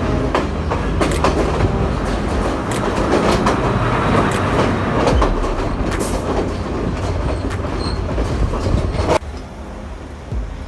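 Sri Lanka Railway Class S9 diesel multiple unit passing close by, with the diesel engine rumbling and the wheels clicking over the rail joints. The sound drops suddenly about nine seconds in.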